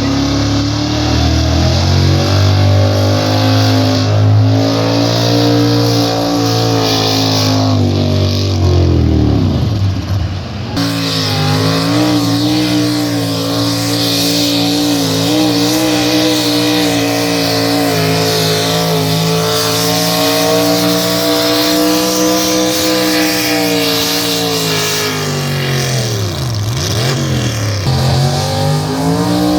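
A pulling vehicle's engine running hard at high, sustained revs under load, its pitch wavering. About ten seconds in the sound drops away and then picks up again at high revs. Near the end the pitch dips and climbs back.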